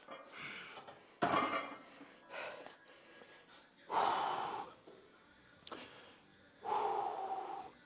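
A man's hard, gasping breaths, about six in a row roughly a second apart, from the strain of a very heavy set of hack squats.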